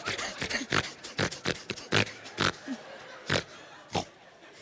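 A man imitating a pig: a series of short, irregular grunts and snorts that grow fainter towards the end.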